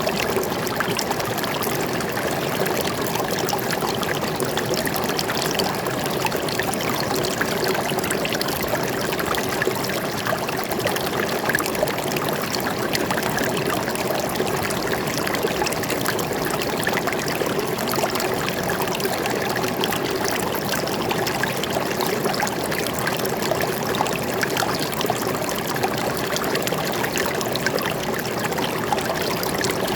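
Stream water flowing and trickling, a steady babbling rush that does not change.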